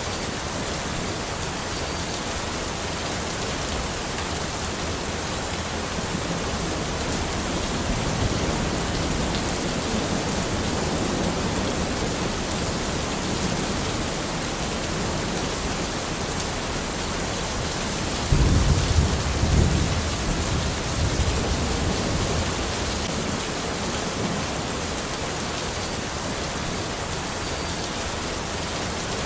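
Steady rain hissing on the forest, with low rolling thunder: a faint swell about a third of the way in and a louder rumble about two-thirds through.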